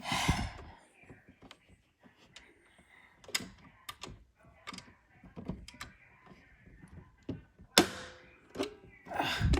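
Scattered clicks and knocks of things being handled, with a louder thump at the start, another about eight seconds in, and a third near the end.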